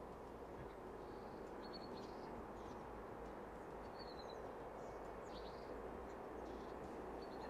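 Small birds giving short high chirps several times, over a faint, steady background hum and hiss.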